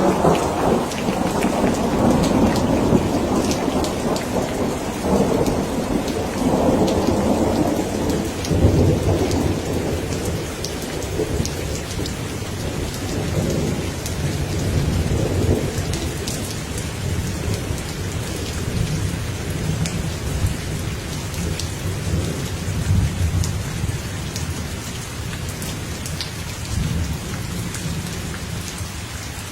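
Steady rain with a long roll of thunder. The thunder is loudest through the first ten seconds, then rumbles on in weaker swells and dies away near the end.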